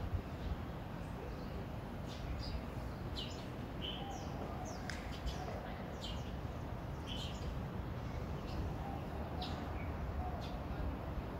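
Birds chirping: short, high chirps every second or so over a steady low background rumble.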